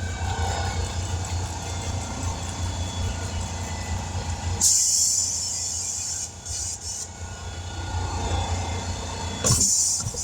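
Steady low machine hum, with two short bursts of air hissing, about five seconds in and again near the end.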